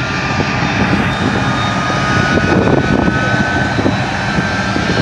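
Aircraft engine running steadily, a dense drone with a thin high whine that slowly rises in pitch.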